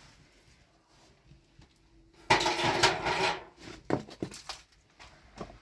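Metal objects clattering and ringing for about a second, followed by a few sharp knocks.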